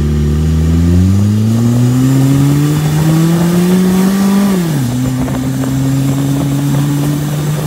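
Turbocharged Honda B20 four-cylinder in a go-kart accelerating: the revs climb for a few seconds, drop sharply as it shifts up into second, then hold steady under load.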